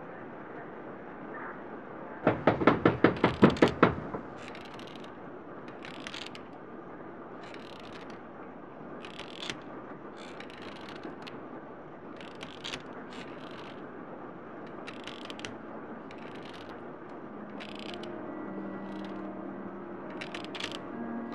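A quick run of about ten loud bangs, about six a second, starting about two seconds in, over a steady hiss, followed by scattered faint clicks. Soft music fades in near the end.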